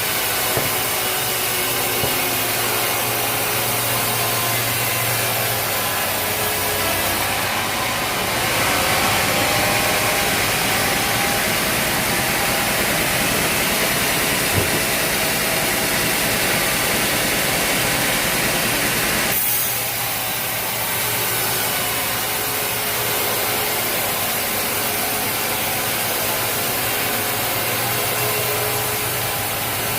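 A sawmill running, its engine humming steadily while the saw blade cuts through a log. The cutting noise gets louder about a quarter of the way in and eases off sharply about two-thirds through.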